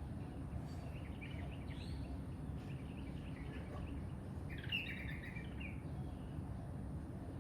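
Songbirds chirping in a quick series of short, high notes, busiest and loudest about two-thirds of the way through, over a steady low rumble.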